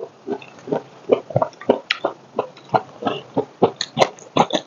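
Close-miked chewing and wet lip smacking, about four to five smacks a second.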